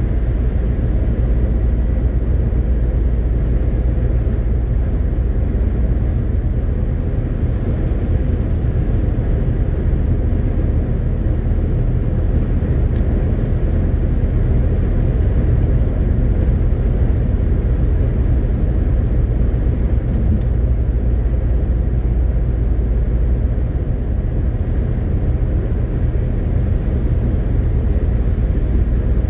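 MAN TGX 18.520 lorry on the move: the steady drone of its diesel engine and a low rumble of road noise. A few faint, brief clicks sound over it.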